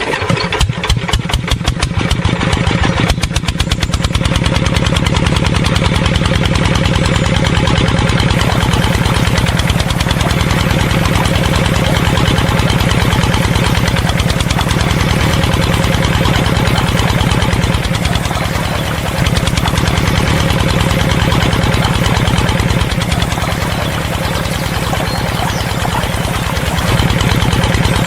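Small engine running, with separate uneven firing pulses for the first three seconds or so, then a steady low running sound.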